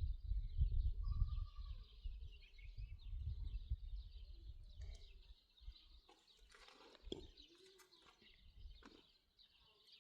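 Small birds chirping and twittering steadily, with a short whistled call about a second in. A low rumble underneath fades out about halfway through.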